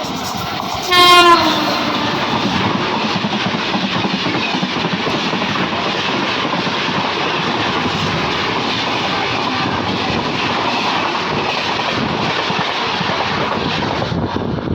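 A train horn sounds briefly about a second in. Then comes the steady, unbroken running noise of a train's wheels on the track as it crosses a railway bridge.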